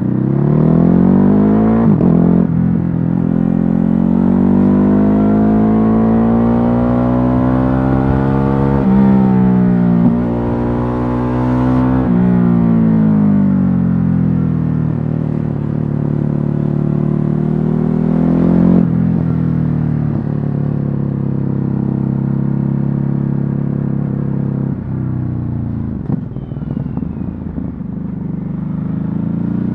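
Ducati Hypermotard 950's L-twin engine under way on the road, heard through a stock exhaust. The revs climb and fall through several gear changes, hold a steady lower note for a while, then rise again near the end.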